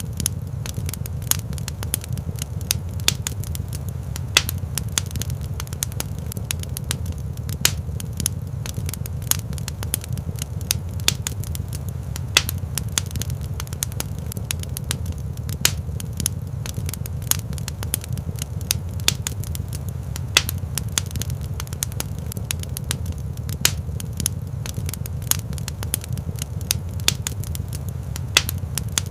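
Fire crackling in a rock fireplace: frequent, irregular sharp pops and snaps over a steady low rumble.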